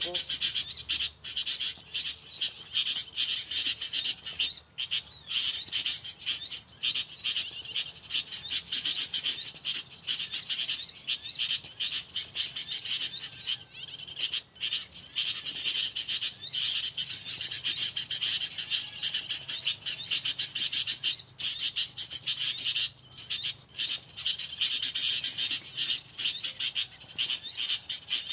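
Small birds chirping: a dense, continuous chatter of quick, high chirps with no pause.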